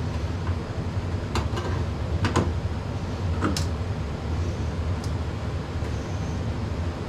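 Steady low hum of a running HVAC indoor unit, with several sharp clicks and knocks of handling parts and tools in the first five seconds.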